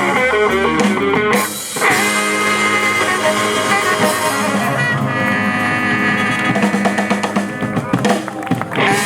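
Live blues-rock band playing an instrumental passage on drums, electric guitar, bass, trumpet and saxophone, with notes held over the drums for most of it.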